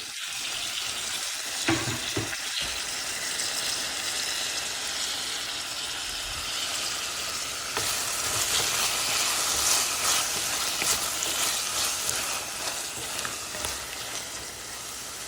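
Chopped onions sizzling as they sauté in hot oil in a pan, with a few knocks near two seconds in. The sizzle grows louder about eight seconds in.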